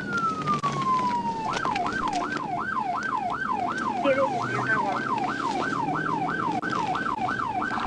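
Electronic police car siren, finishing a slow wail that falls away over the first second and a half, then switching to a fast yelp that sweeps up and down about three times a second.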